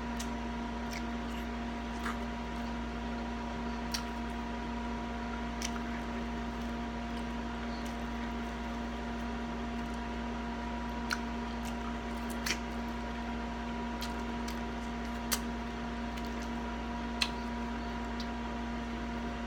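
Close-up mouth sounds of eating sauced baby back ribs: chewing and lip-smacking with scattered small wet clicks, over a steady background hum.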